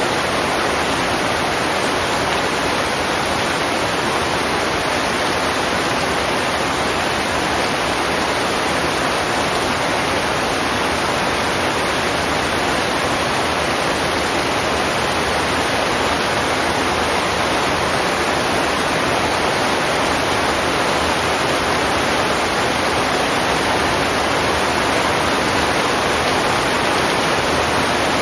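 Heavy rain falling in a steady, even downpour, a dense hiss with no separate drops or thunder.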